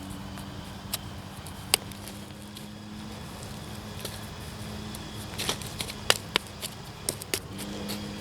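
Digging into field soil to recover a detector target: scattered scrapes and sharp clicks over a steady low hum.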